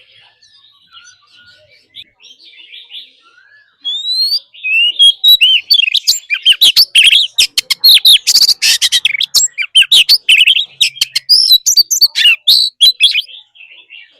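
Oriental magpie-robin singing: faint twittering at first, then from about four seconds in a loud, fast song of varied whistles, rising glides and sharp clicking notes that dies away near the end.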